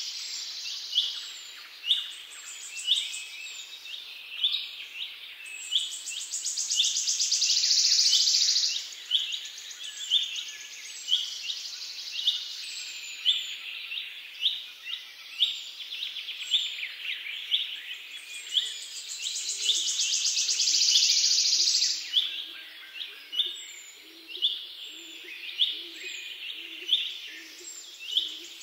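Birdsong: a short chirp repeated about once a second throughout, with a high buzzing trill that swells up twice for a few seconds, louder than the chirps.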